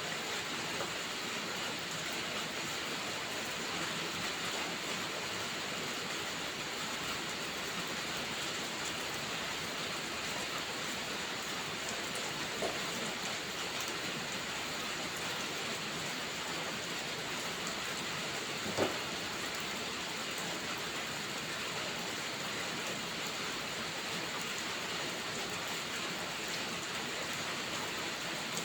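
Steady rainfall hissing evenly, with two brief pops, a faint one near the middle and a louder one about two-thirds of the way through.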